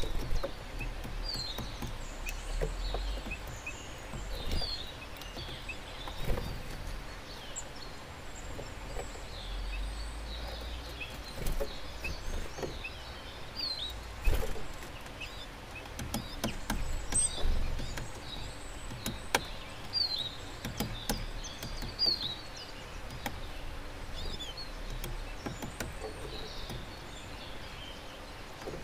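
Small garden songbirds calling with short, high chirps every second or two, over a steady low rumble, with occasional sharp taps.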